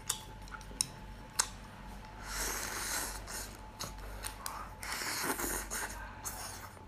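Close-up eating noises from steamed purple-hinge rock scallop: a few sharp clicks in the first second and a half, then two stretches of soft, wet chewing and scraping.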